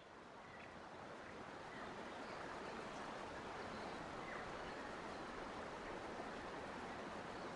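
Steady rushing of flowing water, fading in over the first couple of seconds, with a few faint bird chirps.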